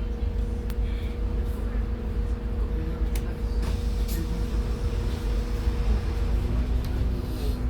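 A Scania N280UD bus's gas (CNG) engine running steadily under the upper deck, a low rumble with a steady hum; the engine note shifts about six seconds in. A few short rattles or clicks from the bus body.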